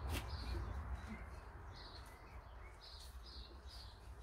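A small songbird singing short, high, repeated notes, about two a second, over a low steady outdoor rumble. A single sharp click comes right at the start.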